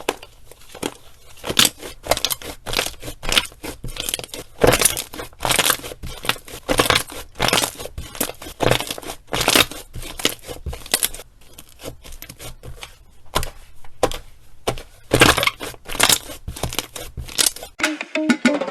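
Slime being worked by hand, squeezed and pressed: an irregular run of sticky crackles and pops.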